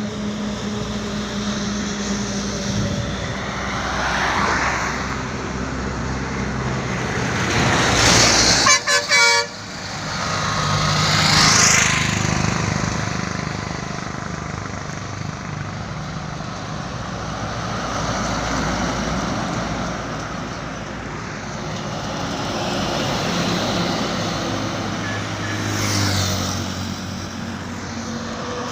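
Road vehicle noise, with engine and traffic running steadily and vehicles swelling past several times. About eight to nine seconds in, a vehicle horn sounds in a few short toots.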